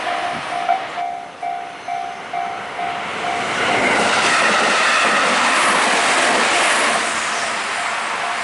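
A Japanese level-crossing warning bell dings in a steady repeating rhythm of about two strokes a second. About four seconds in, a train passes close by, its wheels clattering over the rail joints. It drowns the bell for about three seconds before the bell comes through again.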